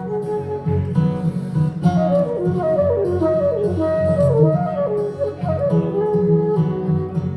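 Band playing an instrumental break between vocal lines: a lead melody of quick descending runs over guitar, bass and drums.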